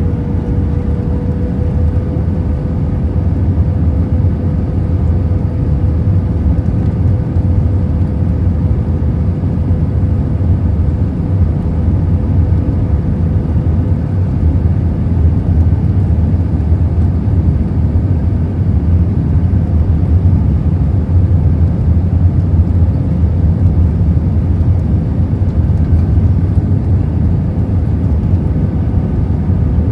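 Steady cabin noise of an Airbus A319 in flight: a loud, even rumble of jet engines and airflow with a faint steady whine above it.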